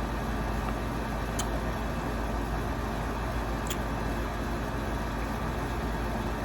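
Steady low rumbling background noise, with a couple of faint clicks about a second and a half and nearly four seconds in.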